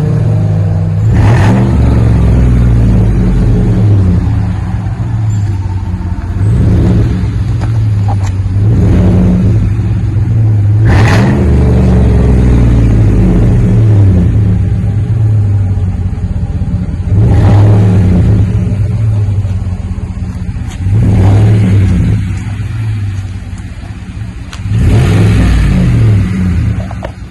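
2019 GMC Yukon's 5.3-litre V8 running through a Flowmaster 40 muffler, with the rear resonator removed, out side-exit tips. It holds a steady deep note, and the engine is revved briefly about six times. The owner describes the tone as clean, deep and throaty.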